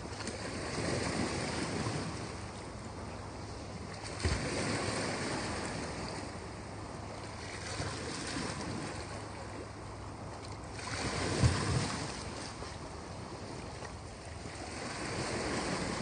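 Surf: waves washing in, swelling every few seconds, with wind buffeting the microphone and two sharp thumps, about four seconds in and near the twelve-second mark.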